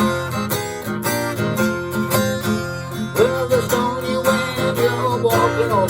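Acoustic guitar strummed in a steady blues rhythm during an instrumental break, with a wavering lead melody line coming in about three seconds in.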